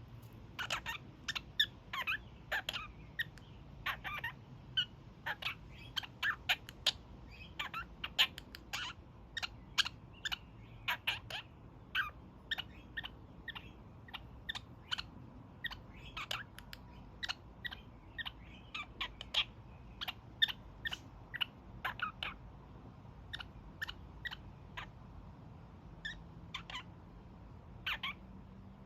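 Young male kakariki (New Zealand parakeet) calling: short, sharp honking calls in quick runs of several a second, with brief pauses between runs.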